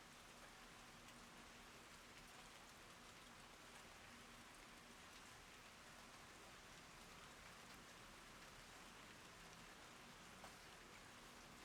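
Faint, steady rain falling on garden plants and leaves, an even hiss with scattered drop ticks, and a single sharper tick about ten seconds in.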